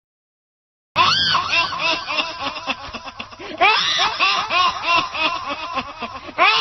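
Laughter sound effect: several people laughing together in quick, overlapping bursts. It starts about a second in after a short silence and swells louder about halfway through.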